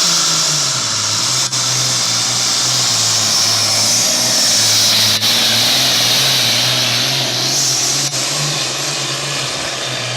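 Modified pulling tractor's engine running flat out under heavy load as it drags a weight-transfer sled, with a strong high whine over the engine note. The engine pitch drops a little about a second in, then holds steady.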